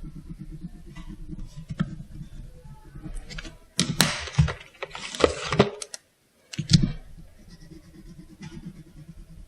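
Pen or coloured pencil scratching on paper while colouring, with a louder stretch of paper rustling and handling in the middle and a brief cut to dead silence just after it.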